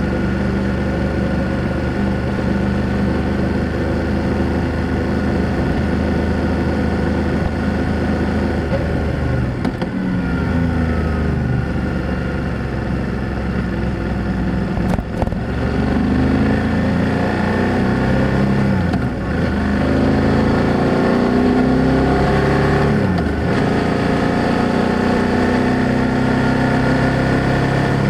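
BMW F800GS parallel-twin motorcycle engine and exhaust under way. The note holds steady at first, drops about a third of the way in, then rises and falls several times in the second half as the bike accelerates and is shifted through the gears, with a brief click midway.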